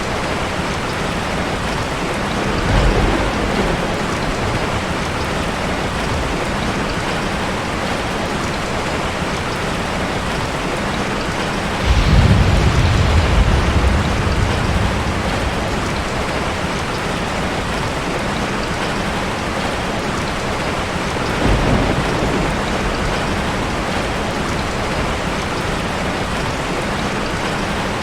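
Steady rain with low rumbles of thunder: a short one about three seconds in, a louder, longer one about twelve seconds in, and another near twenty-two seconds.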